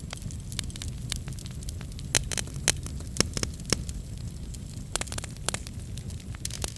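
Wood fire in a fireplace crackling: irregular sharp pops and snaps over a low steady rumble, with a few louder pops about two to four seconds in.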